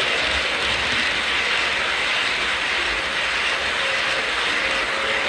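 A train passing at speed without stopping: a steady rushing noise with light rail clatter that holds level throughout.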